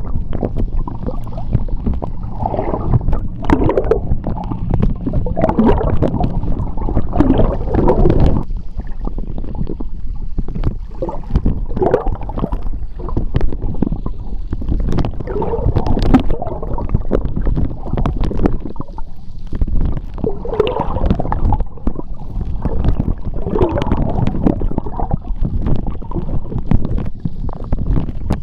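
Seawater heard through an underwater microphone: gurgling, bubbling water churning past, in irregular swells over a low rumble that eases about eight seconds in, with scattered sharp clicks and pops.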